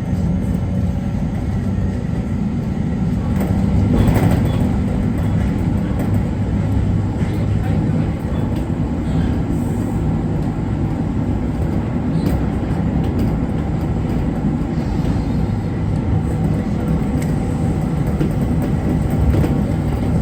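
JR Kyushu 811-series electric train running, heard from inside the front car: a steady low rumble of wheels on rail, swelling briefly about four seconds in.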